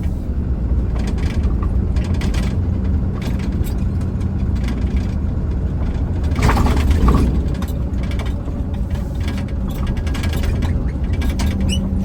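Inside a moving semi-truck's cab: a steady low engine and road drone with frequent rattling clicks, and a louder rush of noise about six and a half seconds in.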